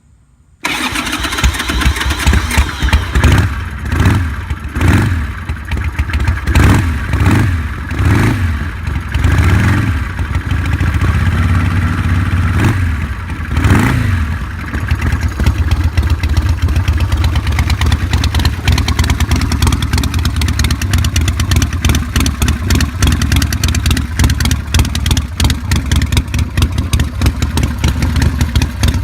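1986 Harley-Davidson Sportster's Evolution V-twin, bored out to 1200 cc and breathing through Vance & Hines pipes, cold-starting on the choke. It fires about half a second in, is revved up and down about eight times over the next dozen seconds, then settles into a steady idle.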